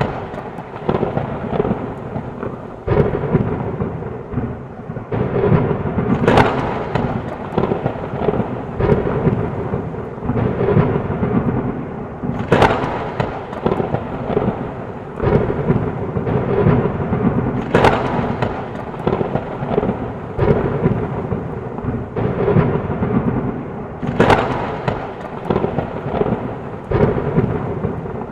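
Heavy rain with thunder rumbling steadily, broken by a sharp thunderclap about every five to six seconds.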